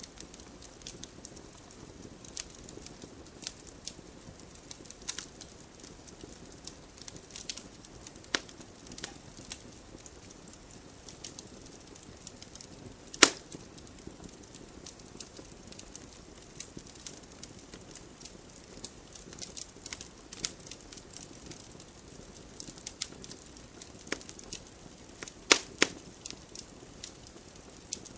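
Wood fire burning in a fireplace: a low steady hiss with irregular crackles and sharp pops, the loudest pop about halfway through and a few more strong pops near the end.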